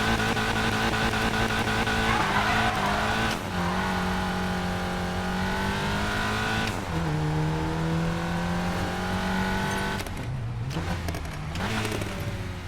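Volkswagen Golf GTI Clubsport's turbocharged 2.0-litre four-cylinder pulling hard under acceleration. Its note steps down in pitch at two upshifts, about three and a half and seven seconds in. About ten seconds in the driver lifts off, and the note drops and wavers as the car slows.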